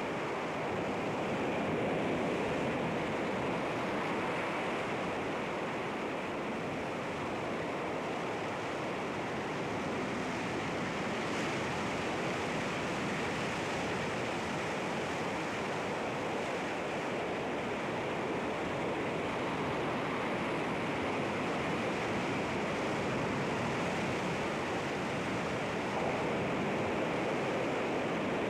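Sea waves breaking on rocks: a continuous wash of surf that swells and eases gently.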